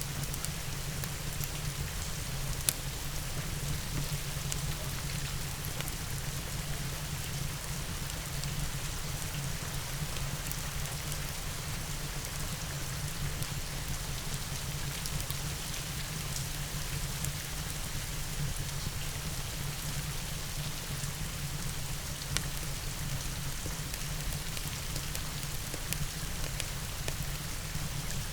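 Steady rain mixed with a crackling fireplace, a continuous even hiss with a low steady rumble underneath. Scattered sharp pops stand out, the loudest about three seconds in and another about 22 seconds in.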